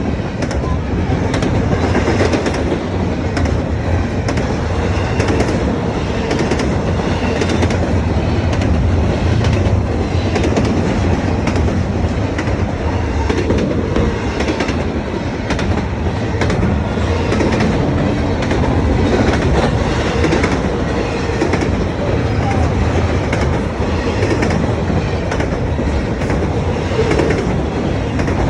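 A train passing, its cars rolling by with a steady rumble and repeated clicks of wheels over the rail joints.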